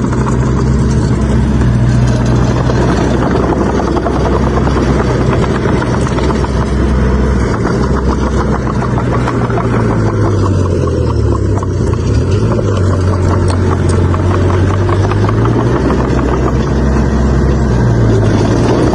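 Heavy diesel engine of earthmoving machinery running steadily. Its speed sags for a few seconds about halfway through, picks up again, then dips briefly near the end.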